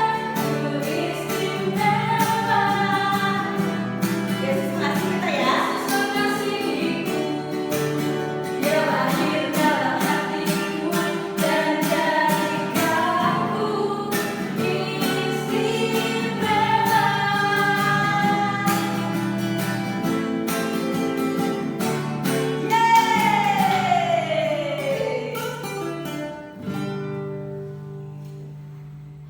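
Children's worship song: singing over an instrumental backing with a steady beat. Near the end the singing slides down in one long falling note and the music fades out.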